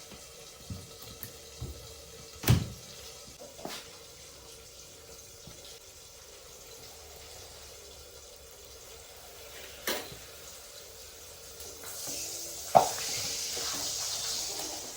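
Kitchen sounds: a few sharp clanks of dishes or utensils, the loudest about two and a half seconds in and again near the end, then water running from a tap for the last three seconds.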